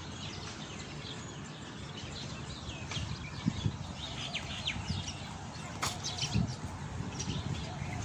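Small birds chirping, many short calls one after another, over a steady low outdoor rumble, with a sharp click about six seconds in.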